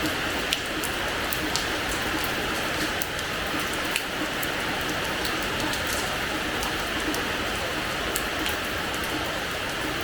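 Steady rain falling on a hard terrace floor: an even hiss with many separate drops ticking on the surface, a few landing louder than the rest.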